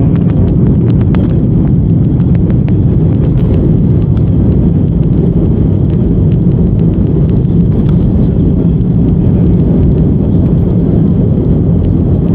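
Steady low rumble inside an Airbus A319 cabin from the jet engines and airflow, with a few faint rattles in the first couple of seconds.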